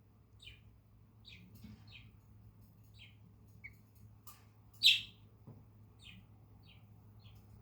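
Cockatiel giving a string of short, soft chirps, with one louder, sharper call about five seconds in.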